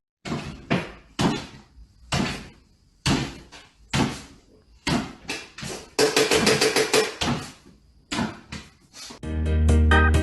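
A series of irregular knocks and bangs, with a quick rattling run of strikes about six seconds in; music starts near the end.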